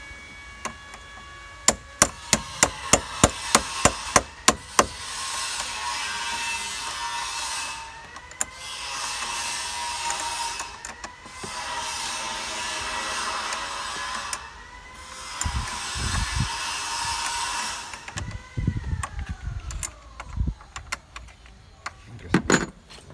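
Tools tightening the new car battery's clamp and terminals: a quick run of sharp, even clicks, about three a second, then four whirring bursts a few seconds long, each rising in pitch as it starts and falling as it stops, the last winding down slowly.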